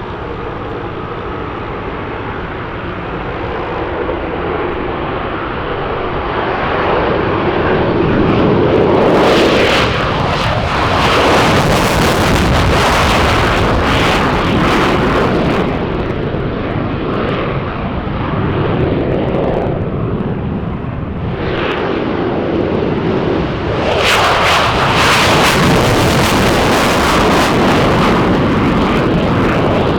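Jet aircraft taking off: a loud, rough engine roar that builds over the first several seconds and stays loud, with surges of hiss about ten seconds in and again near the end.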